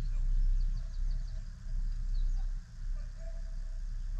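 Outdoor background: a strong, uneven low rumble with faint, short high bird chirps over it and distant calls in between.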